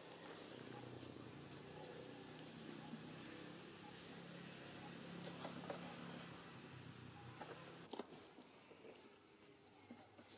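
A small bird calling: faint short high chirps, repeated every second or two. Under them runs a low steady hum that stops about eight seconds in.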